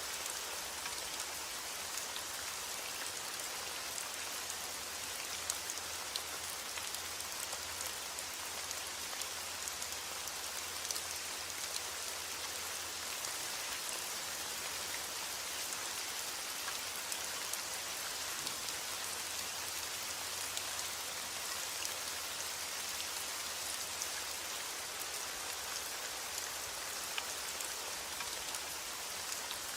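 Steady heavy rain falling, an even hiss with scattered individual drops ticking.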